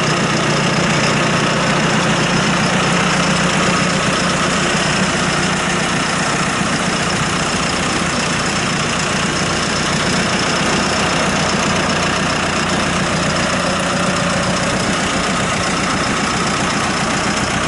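2017 John Deere 5115ML tractor's diesel engine running steadily.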